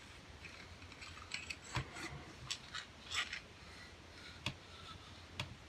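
Scattered light clicks, taps and a few brief scrapes from handling a derringer barrel and cleaning rod while patches are pushed through the bore.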